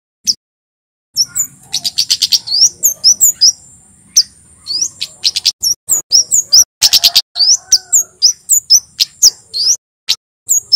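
Male kemade (flowerpecker) singing a fast, loud run of sharp, high, upswept chip notes over a thin, steady high tone, starting about a second in and breaking off near the end.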